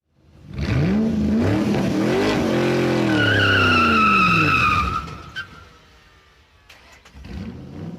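An engine revving up and back down, with tyres squealing for about two seconds at its height, then fading; a fainter second rev rises near the end.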